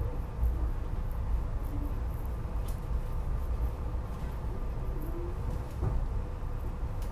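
Steady low rumble and hum of a SEPTA regional rail electric train heard inside the passenger car, with a faint steady whine and a few light clicks.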